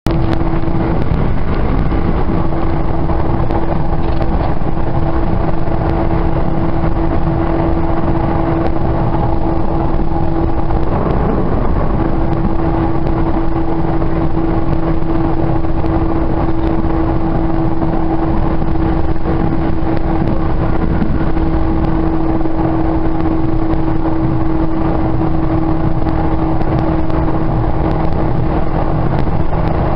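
Steady rumble of a moving train heard from inside a passenger car, with a constant humming tone over it that drops out briefly about a third of the way through, then returns.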